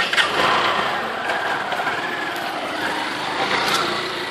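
A motor vehicle's engine running close by, starting suddenly loud, its pitch dipping and then rising again.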